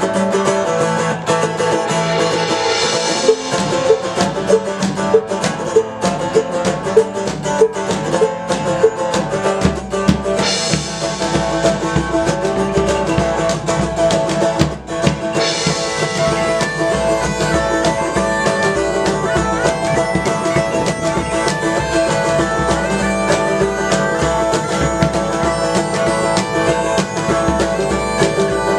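Live folk band playing: drums and plucked strings over a steady drone, with the drums prominent in the first half and a busier melody from about halfway on.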